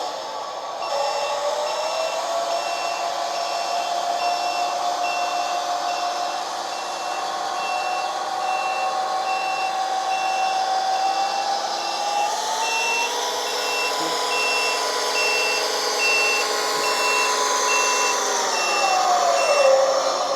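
RC Fendt 1050 tractor model's sound module playing a reversing beeper, with short beeps a little more than once a second, over its simulated diesel engine sound. The engine sound rises in pitch past the middle and drops back near the end.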